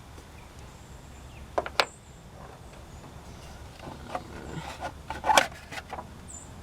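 A few sharp clicks and knocks of parts being handled under the hood, as a cover on the engine is taken off: two clicks about a second and a half in, then a quick cluster of knocks about four to five and a half seconds in.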